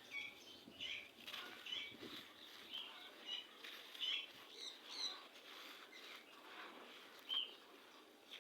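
Gritty red sand crumbling: a run of soft, irregular crunching crackles, about two a second, thinning out after about five seconds, with one sharper crunch near the end.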